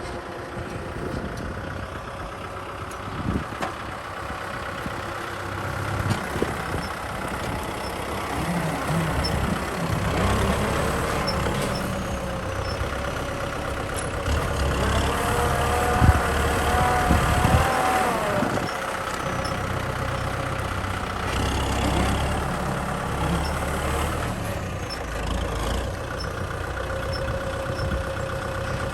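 Kubota M6040 tractor's diesel engine running under load in the field, its note swelling and easing, with a few clanks and a brief whine near the middle.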